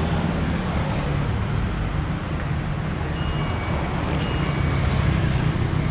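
Steady low rumble of wind on the microphone and road traffic noise.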